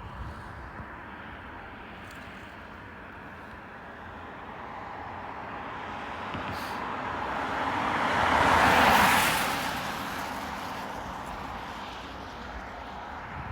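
A road vehicle passing close by: tyre and engine noise builds, peaks about two thirds of the way through with a brief hiss, then fades away.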